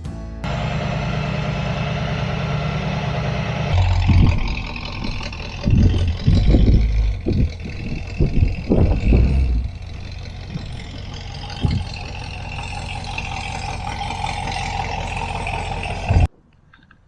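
1966 Ford Mustang's A-code 289 four-barrel V8 running, revved in a series of short, loud throttle blips through the middle before settling back to a steady run. It cuts off suddenly near the end.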